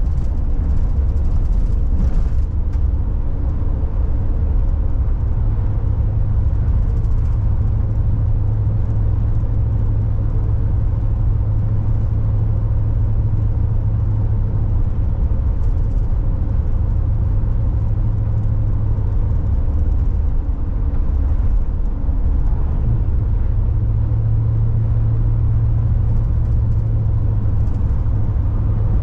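Car cabin road noise while driving: a steady low rumble of engine and tyres with a low drone that holds steady.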